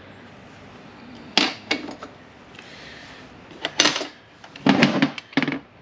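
Steel parts of a manual-transmission shift tower clinking and knocking as a shift rod is worked out by hand. There are a few sharp metallic clinks, one about a second and a half in and one near four seconds, then a short cluster of knocks near the end.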